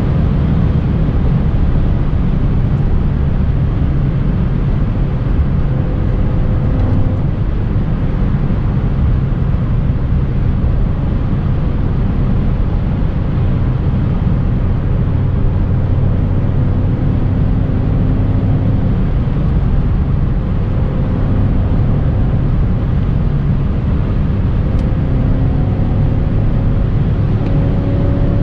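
BMW E39 540i's 4.4-litre V8 running steadily at speed under a dense low rumble, its engine note climbing slightly near the end.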